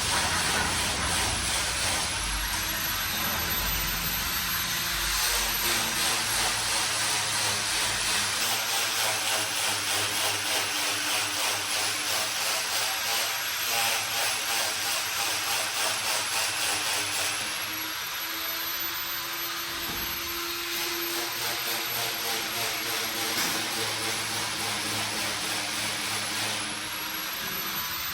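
A power tool running with a steady noise and a thin high whine. It pulses in loudness about twice a second through the middle and eases off a little past halfway.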